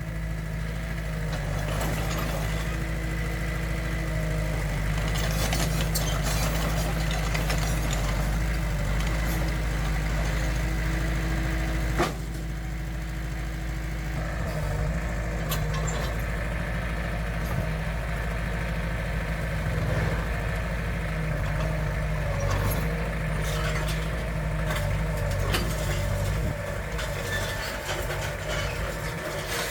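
Heavy diesel engine of earthmoving machinery running steadily, with a single sharp click about twelve seconds in.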